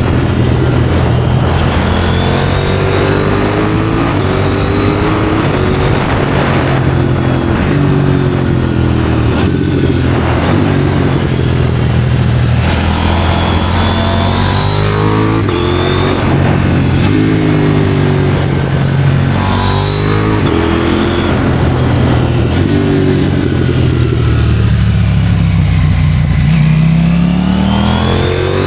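KTM Duke 790's parallel-twin engine through an IXRACE aftermarket exhaust, ridden hard: the revs climb and fall again and again through the gears, under a rush of wind noise. Near the end the engine pulls through one long steady rise in revs.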